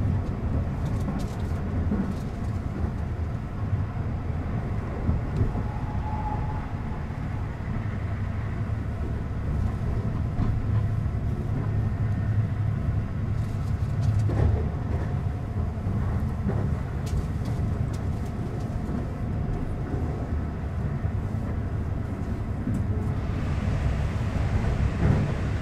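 Keihan 8000 series limited express train running at speed, heard from inside the car: a steady low rumble with occasional sharp clicks from the wheels and track. Near the end a rush of hiss comes in as the train runs past a station.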